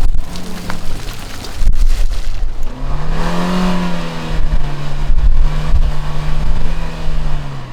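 Off-road 4x4 engine revving up about three seconds in, then held at steady high revs as the vehicle works through an obstacle, with low rumble and a few knocks before it.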